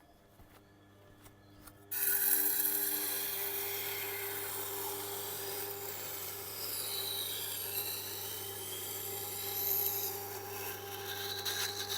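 Tormek T8 wet grinder's motor humming, then about two seconds in a steel knife blade is pressed onto its SG-250 grindstone and scrapes steadily as the edge bevel is ground.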